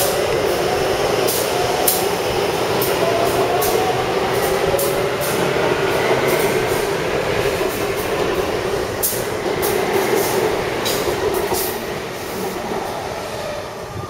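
A Taipei Metro train running, with its motor whine slowly rising in pitch as it picks up speed. Sharp clicks from the wheels over the track come throughout, and the sound eases off slightly near the end.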